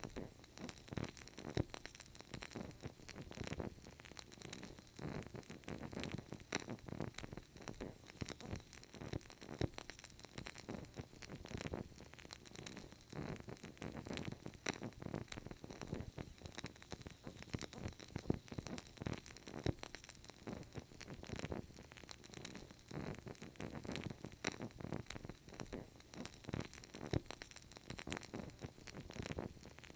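Burning candle, its wick crackling with soft, irregular clicks over a faint steady hiss.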